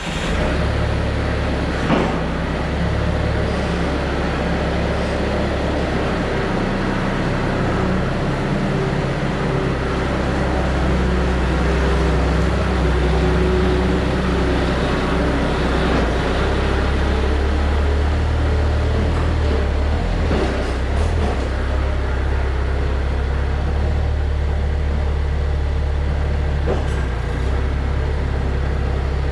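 Bobcat 753 skid steer's diesel engine running steadily, with a few brief knocks along the way.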